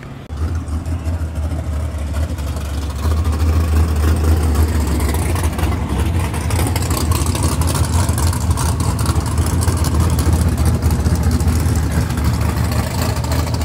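A car engine running nearby with a deep, steady low rumble that comes in suddenly just after the start.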